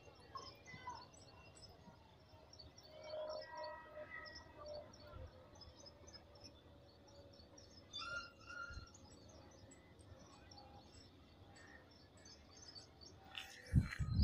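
Small birds chirping continuously in quick high notes over quiet background noise. Near the end come a few loud thumps from the camera being handled.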